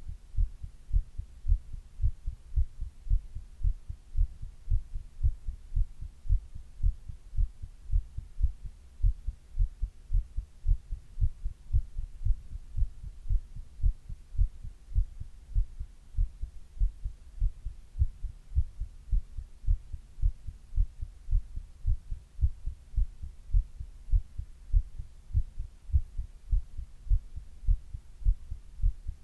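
A human heartbeat heard up close: a steady, even rhythm of low thuds.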